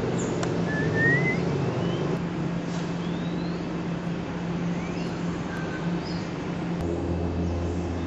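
Wild birds giving a series of short, rising whistled calls, about six in all, the clearest about a second in. Under them runs a steady low mechanical hum like traffic, which deepens near the end.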